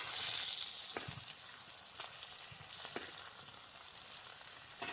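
Banana-leaf-wrapped fish parcels sizzling in mustard oil on a tawa over low heat. The sizzle is strongest at the start and eases off, with a few light ticks about once a second.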